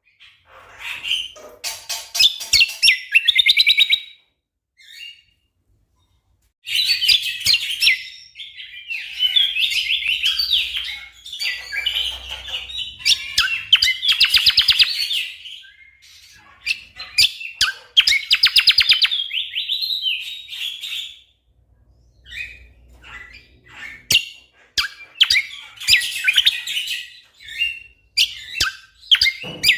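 Cucak kombo (kecial kombok) songbird singing in loud, rapid bursts of dense repeated notes and trills, the fast 'shooting' phrases prized in songbird-contest training, with short pauses between bursts.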